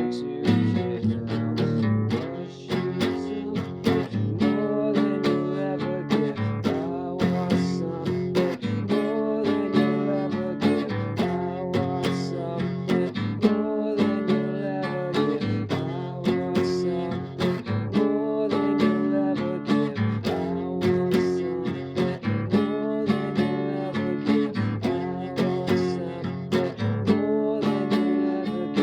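Acoustic guitar strumming a chord progression that repeats about every two seconds.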